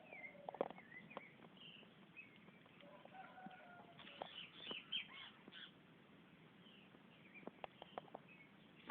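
Wild birds chirping and calling faintly: short high chirps and quick sweeping notes, thickest in a flurry about four to five seconds in, with a few scattered soft clicks or taps.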